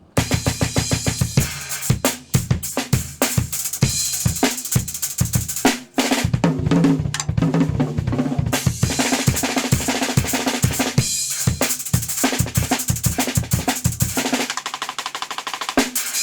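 Acoustic drum kit played fast and hard: rapid bass drum and snare hits under a continuous cymbal wash, with a brief break about six seconds in.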